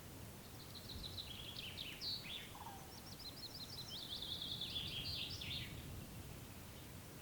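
A songbird singing one fast, twittering phrase of rapid high chirps lasting about five seconds, over a steady low background rumble.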